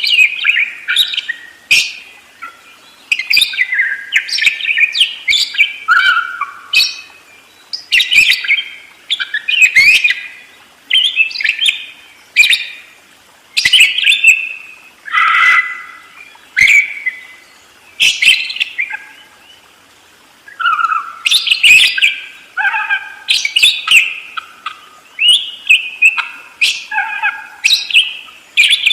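Budgerigar (parkit) chattering and warbling in fast, unbroken runs of chirps. The runs come in phrases of a second or two with short gaps between them.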